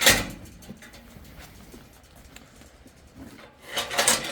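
Sheep shuffling in a handling race, hooves clattering in two short scrambles, one at the start and one near the end.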